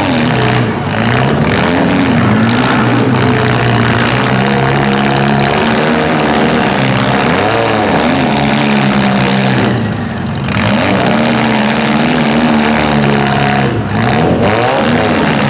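Compact demolition derby cars' engines revving hard, their pitch rising and falling again and again as the cars accelerate.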